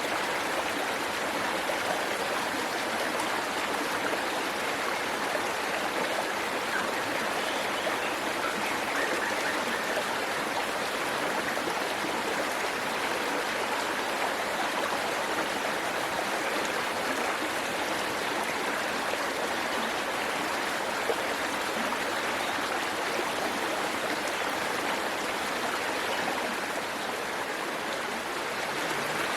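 Waterfall and the stream below it: water falling and rushing over rocks in a steady, unbroken rush.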